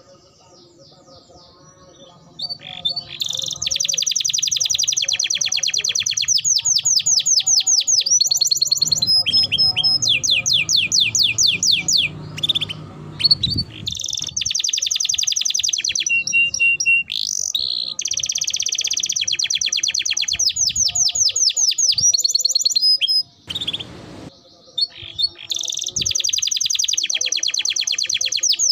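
Canary singing a long, vigorous song of very fast trills and rolls. It starts about three seconds in and is broken by a couple of short pauses.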